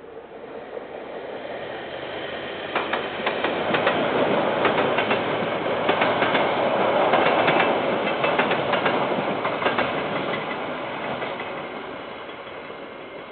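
KiwiRail train rolling past, its wheels clicking repeatedly over the rail joints. The rumble builds, peaks about midway, then fades as the train moves away.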